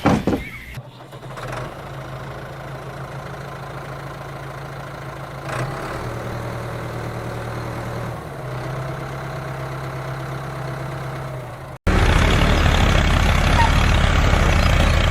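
A small motor, such as that of a homemade mini tractor, runs with a steady hum that shifts slightly twice. After an abrupt cut near the end, a louder, rougher rattling running sound with a deep hum takes over.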